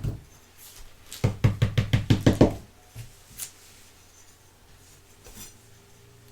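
A sharp knock, then a quick run of about ten knocks at roughly eight a second, followed by a few fainter ticks.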